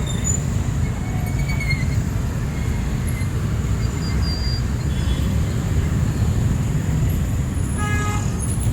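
Street ambience: a steady low rumble of traffic, with a brief pitched sound about eight seconds in.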